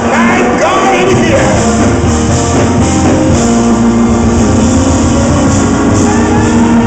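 Loud live gospel praise-break music from a church band, with voices singing and shouting over it.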